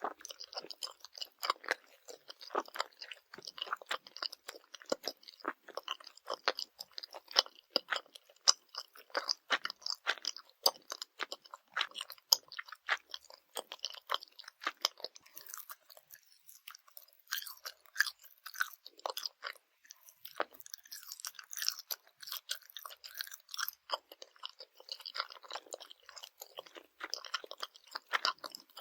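Close-miked chewing of Swedish jelly candy: a dense, continuous run of small clicks, thinning briefly about two-thirds of the way in.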